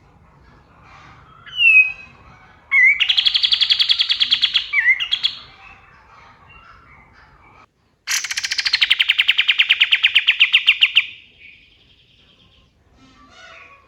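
A kapas tembak singing loud, rapid trills. First a short slurred note leads into a fast trill of about two seconds. A few seconds later a longer, faster trill starts high and drops in pitch, then tails off.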